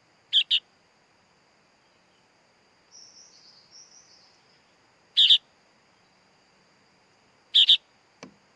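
Young sooty-headed bulbul (kutilang) chick calling: short double chirps, three times a few seconds apart, with fainter higher twittering between them.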